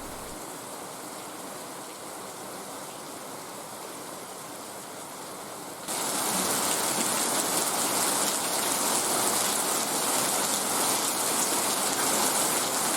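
Heavy rain falling, a steady hiss that suddenly becomes much louder about six seconds in.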